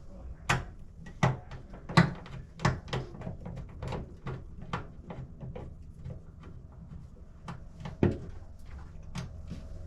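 Irregular clicks and knocks of a screwdriver, screws and metal fixture parts being handled and fitted while a light fixture is screwed to its box, with a few sharper knocks about half a second, two seconds and eight seconds in.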